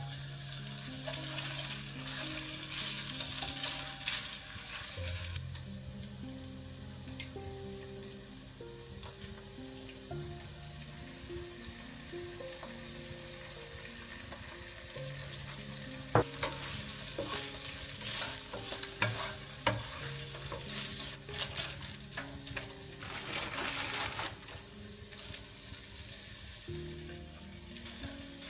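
Food frying and sizzling in a pan while it is stirred, with a few sharp clicks of the utensil against the pan in the second half.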